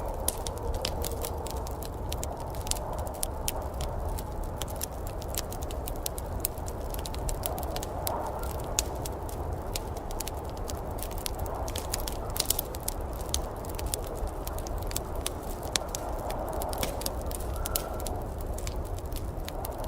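Wood fire crackling, with frequent irregular sharp pops and snaps over a steady low rumble and hiss.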